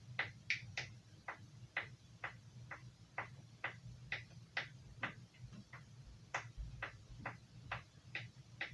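A carving knife blade stroked back and forth on a leather strop, each pass making a short crisp tick at about two a second, some twenty strokes in all, while the edge is honed.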